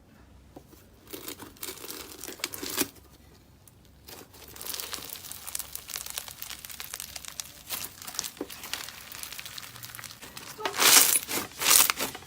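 Slime being pressed and stretched by hand, crackling and crinkling. A few scattered crackles come first, then a short lull, then dense steady crackling with louder bursts near the end.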